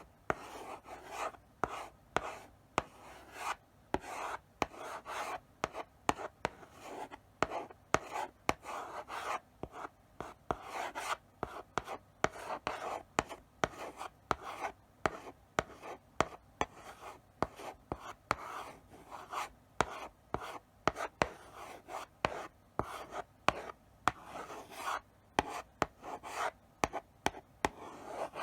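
Chalk writing slowly on a blackboard: scratchy strokes, each short and broken by frequent sharp taps as the chalk meets the board.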